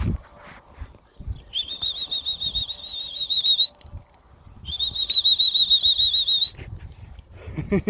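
A trilling whistle blown twice, each blast about two seconds long with a steady warbling pitch that rises slightly as it ends.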